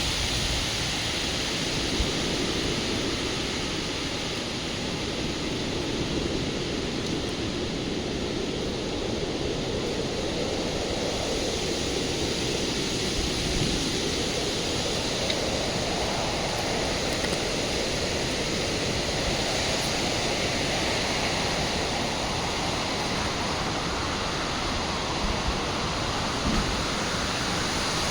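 Gusty wind blowing hard: a dense, steady rushing noise that slowly swells and shifts in tone.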